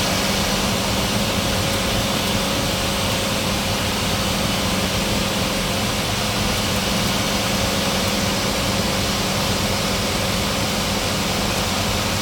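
Seaplane's engine and propeller running with a steady, unchanging drone during the landing approach.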